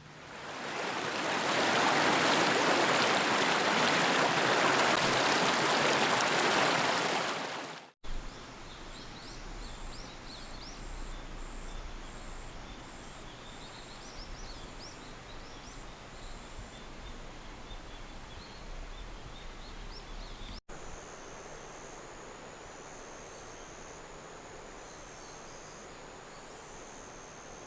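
A steady rushing hiss for about eight seconds that cuts off. Then quieter outdoor ambience with small birds chirping. After a second cut, a faint steady hiss with a high tone that comes and goes.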